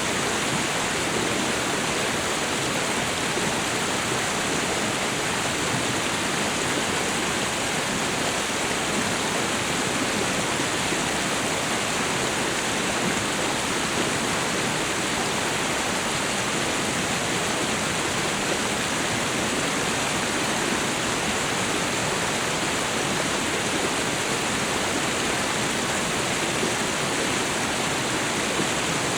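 Waterfall and river water rushing, a steady, even roar of falling and flowing water with no breaks.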